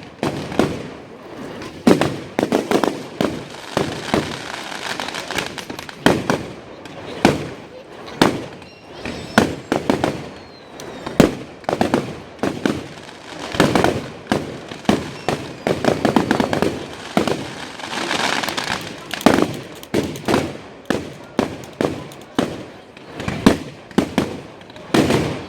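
Fireworks display: a rapid, irregular barrage of aerial shells bursting, many bangs every second, with crackling between them.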